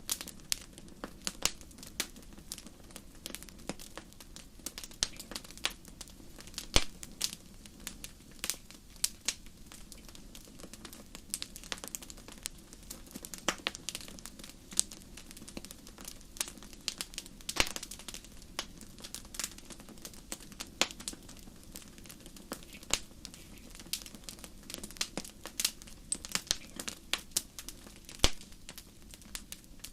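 Fire crackling in a fireplace: irregular sharp pops and snaps, several a second, over a faint steady low hiss.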